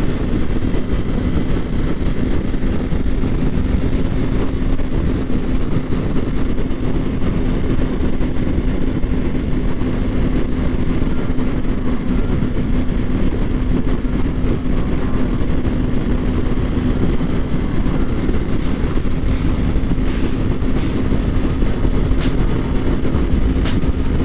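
Kawasaki Ninja 400 parallel-twin engine holding a steady note at cruising speed, under a heavy low rush of wind noise on the microphone. A series of short, sharp clicks comes in near the end.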